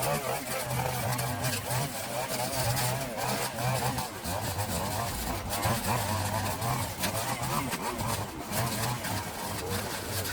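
A small engine running steadily, its pitch wavering up and down.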